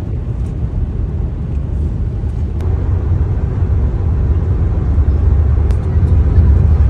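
Steady low rumble that grows gradually louder toward the end, with a few faint clicks.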